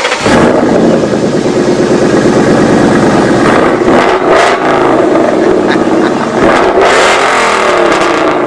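Car engine being revved, its pitch rising and falling several times.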